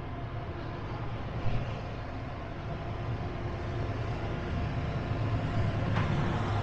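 Low steady rumble of a vehicle with a faint hum, slowly growing louder.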